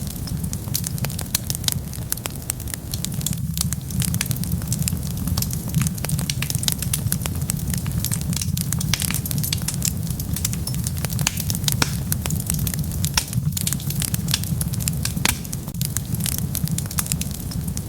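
Wood fire burning: dense, irregular crackles and pops over a steady low rumble of the flames.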